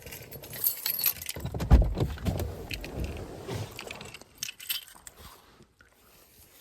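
Keys jangling and clinking amid handling knocks and rattles, with one heavy thump a little under two seconds in, then quieter scattered knocks.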